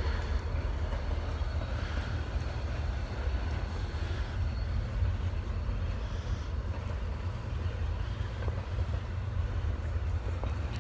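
Long freight train rolling past close by: a steady low rumble of cars on the rails with a hiss above it.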